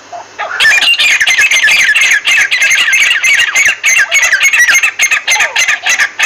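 Red-wattled lapwing giving a fast, shrill run of repeated chattering calls, several a second, starting about half a second in and lasting about five seconds.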